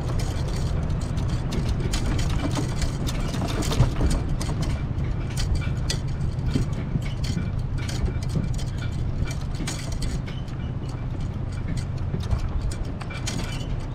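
Strong wind buffeting the microphone, a steady low rumble, with scattered clicks and knocks throughout.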